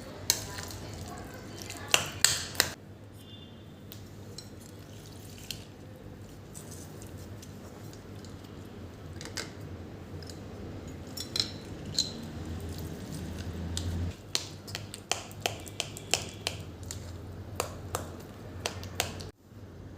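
Scattered clinks and knocks of dishes and utensils being handled in a small room, over a low steady hum.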